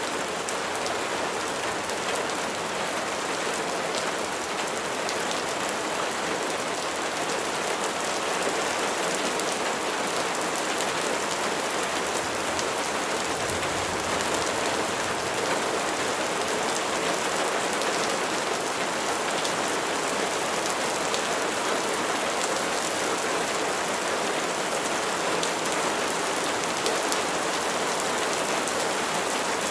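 Steady rain falling, a dense, even hiss of many drops that stays level throughout.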